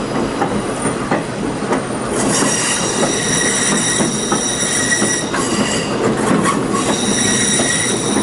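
Train wheels squealing against the rails: a steady high-pitched squeal starts about two seconds in and drops out briefly twice. Under it runs the rumble and clicking of the cars rolling over the track.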